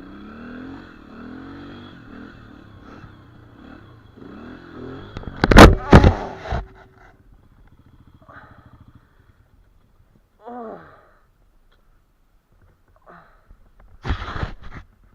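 Dirt bike engine revving, its pitch rising and falling. About five and a half seconds in come several very loud thumps, after which only a low engine hum is left, fading out a few seconds later. Another short loud burst comes near the end.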